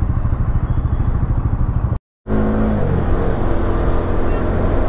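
Bajaj Dominar 250's single-cylinder engine running steadily under way. The sound cuts out for a moment about two seconds in, and when it returns the engine note eases down slightly.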